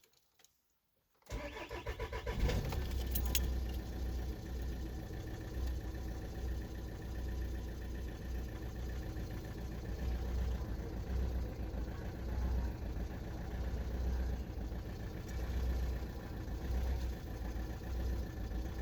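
VW 1.6 TDI four-cylinder diesel engine cranking and catching about a second in, then idling steadily. The owner suspects faulty injectors.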